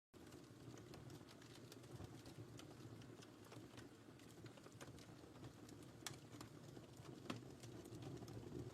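Wood fire crackling in a fireplace: irregular sharp pops and snaps over a low steady rumble of the flames, with a couple of louder pops about six and seven seconds in.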